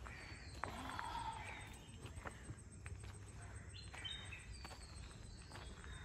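Birds chirping and calling in a tropical garden: short high chirps every second or so, with a warbling call about a second in, over a steady low rumble.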